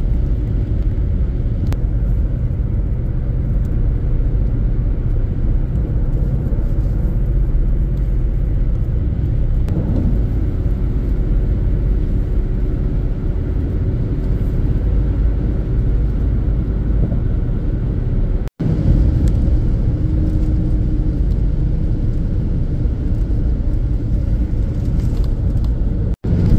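Car driving along, with steady engine and road rumble. The sound cuts out completely for a split second twice, about two-thirds of the way through and again near the end.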